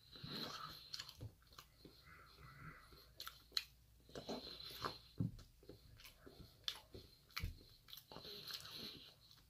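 Close-miked chewing and mouth sounds of a person eating mouthfuls of potato, with many short sharp clicks scattered throughout.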